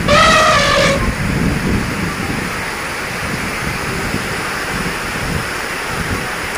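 Steady rushing noise of heavy storm wind and rain, opening with a brief high-pitched call lasting about a second.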